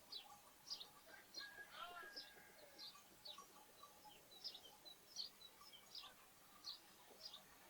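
Sparrows chirping faintly, short high chirps repeating about twice a second, with a brief lower call about two seconds in.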